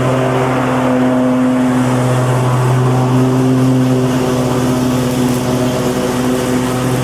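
Lawn mower engine running steadily at a constant speed, its low hum slightly unsteady from about four seconds in.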